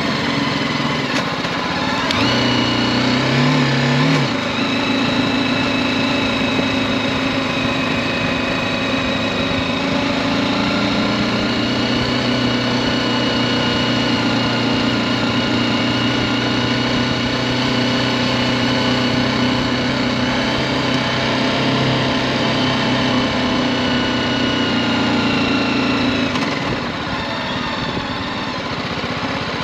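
BMW G310GS motorcycle's single-cylinder engine running under way. It picks up revs about two seconds in, holds a steady pace, then eases off near the end.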